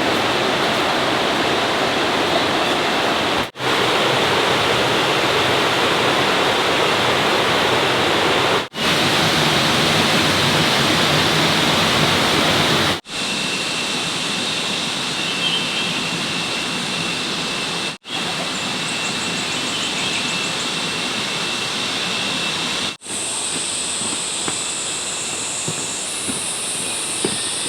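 Steady rushing of running water, cut off briefly every four to five seconds and coming back at a slightly lower level in the later part.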